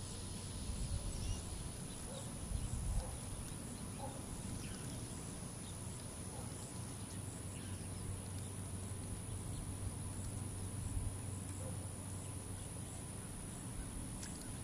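Quiet outdoor evening ambience: a steady high insect drone with faint scattered bird chirps over a low rumble, with a couple of low bumps about one and three seconds in.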